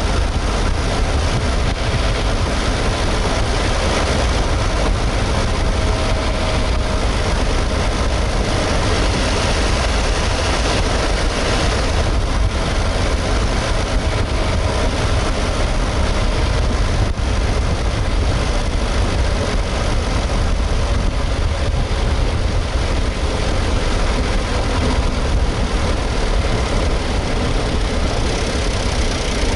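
Suzuki Hustler's 660 cc three-cylinder engine running steadily and loud, with a heavy low hum. The engine is being checked for a rattle near 2,200 rpm that the owner puts down to a loose exhaust manifold heat cover.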